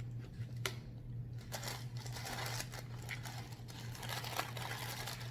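Handling noises from eating, with food wrappers being handled: a sharp click about 0.7 s in, then soft paper rustling, over a steady low hum.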